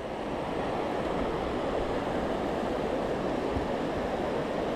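Steady rushing of river whitewater.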